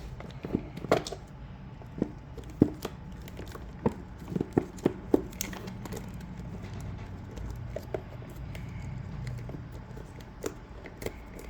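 Sporadic light clicks and taps as hands work on a motorcycle's exhaust-valve cables and plastic wiring connector, over a faint low hum.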